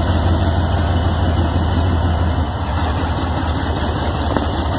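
Vehicle engine idling with a steady low rumble, easing slightly about halfway through.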